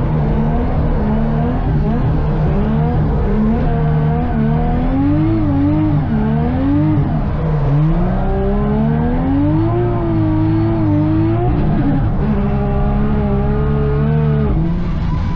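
Drift car engine revving hard, its pitch rising and falling again and again. About eight seconds in it makes one longer climb in revs, then drops off some three seconds later.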